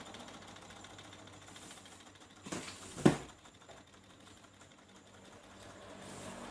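Small beta-type Stirling engine running with a fast, light mechanical clatter. Two sharp knocks come about halfway through, the second much louder.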